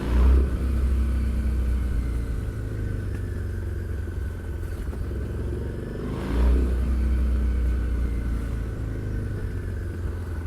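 Harley-Davidson Street 750 V-twin engine and exhaust heard while riding. The rider opens the throttle twice: right at the start and again about six seconds in. After each, the engine pulls steadily under load.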